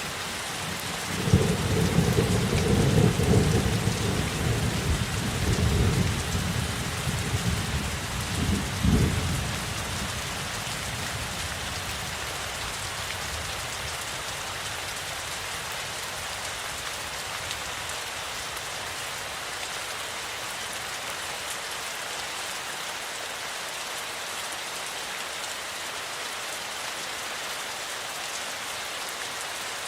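Steady heavy rain hissing, with a long rumble of thunder from about a second in that swells and dies away by about ten seconds in, leaving the rain alone.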